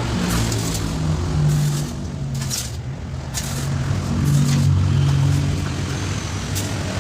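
Truck engine running, its low drone shifting up and down in pitch, with scattered clicks and rattles.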